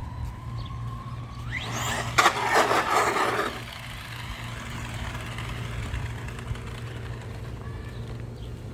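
Electric motor of a 3S 4x4 RC truck whining steadily, then rising sharply in pitch as the truck accelerates hard. This is followed by about a second and a half of loud tyre and gravel noise with a sharp knock.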